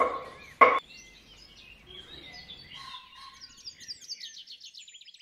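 Birds chirping, ending in a fast trill of high falling notes, with two sharp clinks near the start, the second the loudest.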